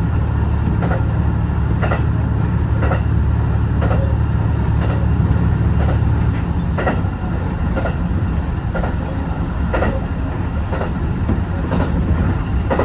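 HB-E210 hybrid diesel railcar running on the line, heard from inside, with a steady low rumble and the wheels clicking over rail joints about once a second. The low hum eases off slightly about six seconds in.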